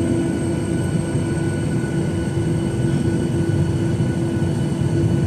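Steady cabin noise inside a Boeing 737-900ER: an even low rumble with a constant mid-pitched hum and fainter high whines from the aircraft's engines and air-conditioning.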